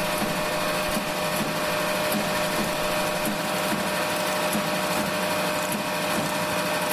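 25-inch Ramco dry belt grinder running steadily: an even rushing noise with a constant whine.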